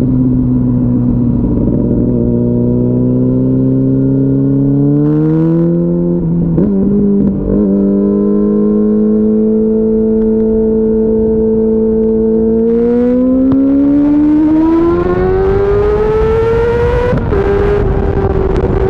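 2004 Yamaha R6's inline-four engine running at highway speed under wind rush. It holds a steady pitch, climbs as the bike accelerates, breaks briefly about seven seconds in, holds steady again, then climbs a second time until a small drop in pitch about seventeen seconds in, an upshift.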